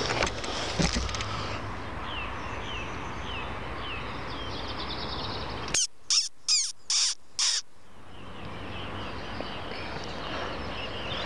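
A bird gives five loud, harsh calls in quick succession about six seconds in. Fainter small-bird chirps, short and falling, come before them.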